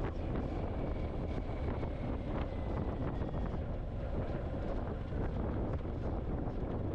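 Steady wind rush on a motorcycle helmet com-unit microphone, with the BMW R1250 GS Adventure's boxer-twin engine running underneath while riding.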